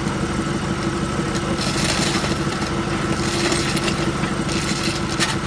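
A farm machine's engine running steadily at a constant speed, with a few short bursts of noise over it about two, three and four and a half seconds in.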